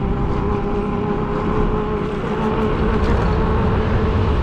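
Wind rumble on the microphone and road noise while riding an e-bike, with a steady whine from the electric motor.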